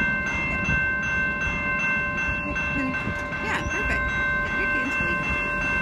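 Train running close by: a steady low rumble with several steady high tones held over it.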